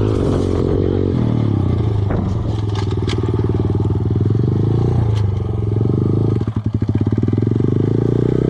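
Kawasaki KLX110 dirt bike's small single-cylinder four-stroke engine running, its note rising and falling with the throttle, with a few sharp clicks and clatters. About two-thirds of the way in, the engine note briefly pulses rapidly before steadying again.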